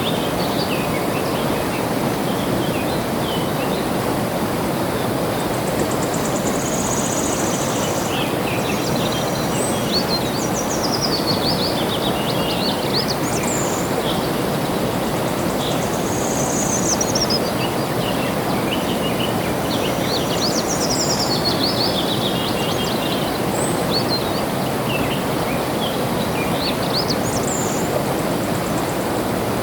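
Steady rush of flowing water with many small birds chirping and singing over it, in short high trills and descending phrases that come and go.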